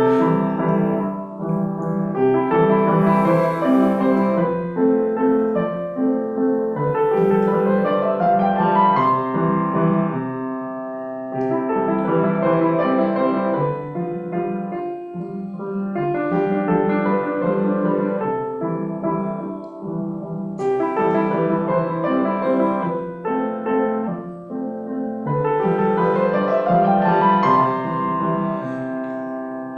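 Solo piano playing a slow piece of sustained chords, with a rising run of notes twice.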